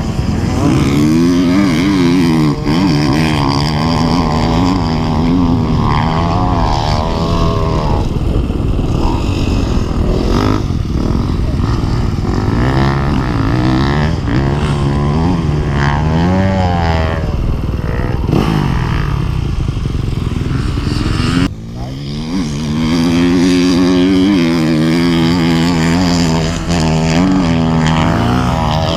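Dirt bike engines revving as the bikes are ridden, the pitch rising and falling again and again as the throttle is opened and closed. There is a brief drop about three-quarters of the way through, then the engine sound resumes.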